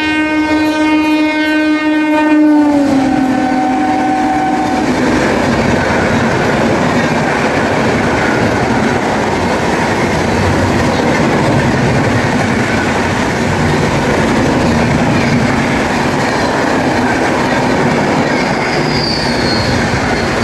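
WAP-7 electric locomotive's horn sounding a loud chord that drops in pitch about two and a half seconds in as the locomotive passes, and stops about five seconds in. Then the steady rush of the express's coaches running past at high speed.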